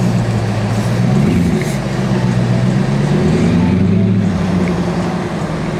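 Car engine running at low revs with a steady drone, its pitch rising slightly about a second in and again a little before four seconds.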